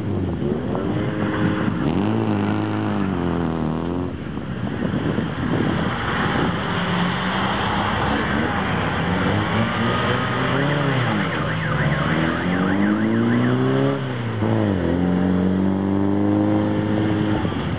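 A car engine revving hard and dropping back again and again as the car accelerates and brakes between the markers of a figure-driving slalom course.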